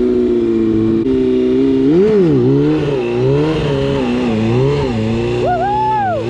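Motorcycle engine idling steadily, then revved up and down several times from about two seconds in. A brief high tone rises and falls near the end.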